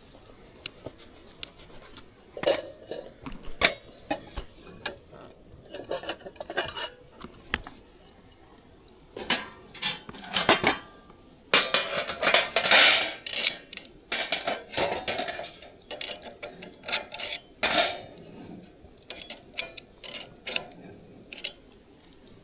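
Metal cookware and utensils clinking, knocking and scraping in irregular strokes, with a busier stretch of continuous clatter about halfway through.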